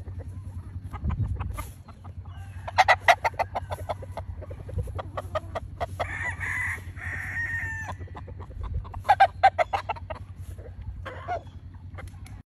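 Chickens calling: bursts of rapid clucking and cackling, with a rooster crowing one long crow about six seconds in. A steady low hum runs underneath.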